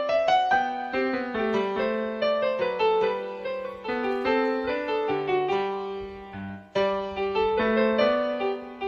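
Background piano music: a gentle melody of struck notes over lower held notes, dipping away briefly about six and a half seconds in before carrying on.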